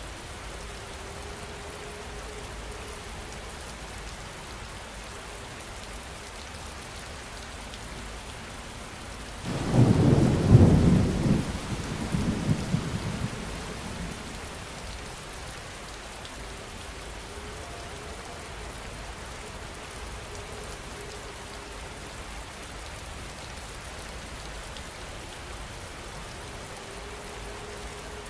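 Steady rain falling, with a single thunderclap about a third of the way in that rolls and rumbles away over the next few seconds.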